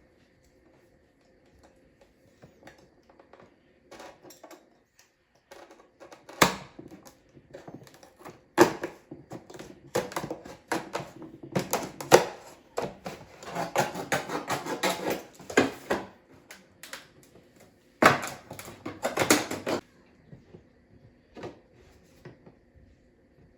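Objects being handled at close range: irregular clicks, taps and knocks, with louder stretches of clattering and scraping in the middle and again for a couple of seconds near the end.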